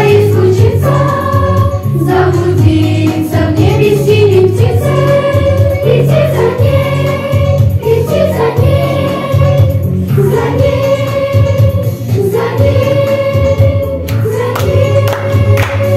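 Music: a choir singing a song over an instrumental backing, in phrases of long held notes.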